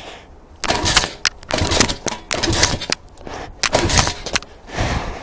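Evo 140 pit bike being kick-started over and over: four or five short bursts of mechanical clatter as the kickstarter turns the engine over, which does not catch and run.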